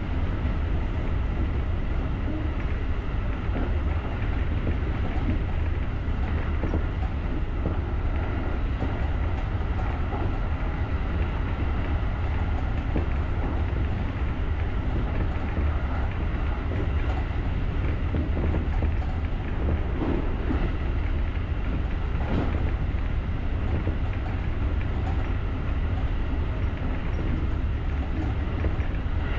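JR rapid electric train running along the line, heard from inside the front cab: a steady low rumble of wheels on rail with a few faint knocks.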